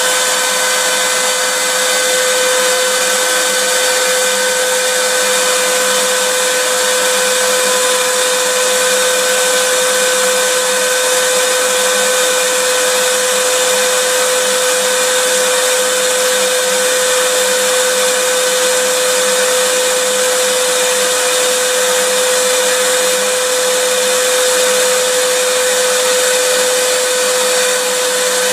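Vacuum cleaner running steadily: an even rush of air with a constant motor whine, unchanging throughout.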